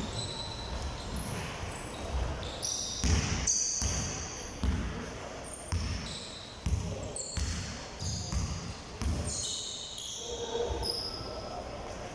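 Balls bouncing irregularly on a hard indoor court, with short high squeaks from sneakers on the floor, echoing in a large hall.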